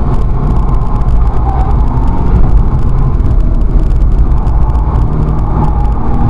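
Loud, steady in-cabin engine and road noise from a Volkswagen Scirocco race car driven at speed on track.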